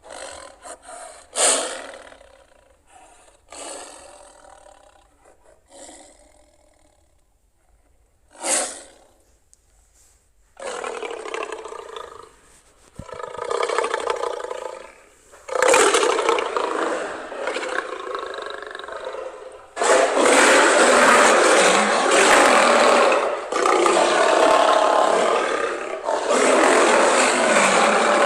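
Lion roaring: a few short growls at first, then longer and louder roars from about ten seconds in, loudest and nearly continuous in the last eight seconds.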